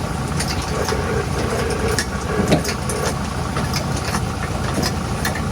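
Heavy truck diesel engine idling steadily, with scattered sharp clicks and a short knock about halfway through.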